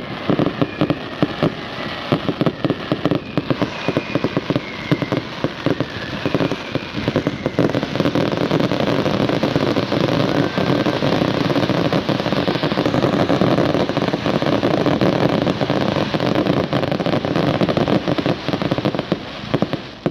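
Fireworks finale: a rapid barrage of bangs and cracks that merges into continuous dense crackling, then thins out near the end.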